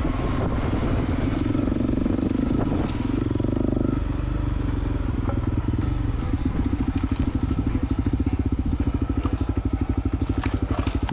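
Honda CRF250L's single-cylinder four-stroke engine running at low revs as the trail bike is ridden slowly, starting suddenly. From about six seconds in it settles into an even, steady chug.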